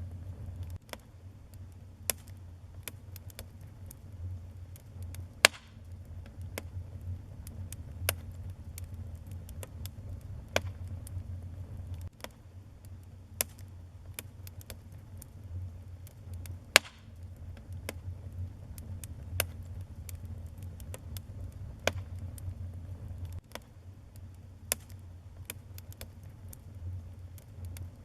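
Wood fire burning in a fireplace: irregular sharp crackles and pops over a steady low rumble of the flames, with two louder pops, one about five seconds in and another about seventeen seconds in.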